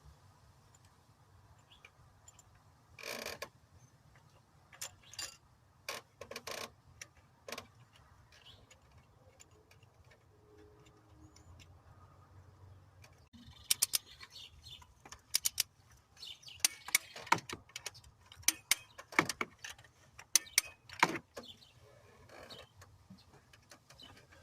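Metal valvetrain parts of a 6.7 L Cummins diesel clicking and clinking as push rods, rockers and rocker bridges are handled and set in place. A few separate knocks come in the first half, then a busier run of sharp metallic clicks from about halfway through.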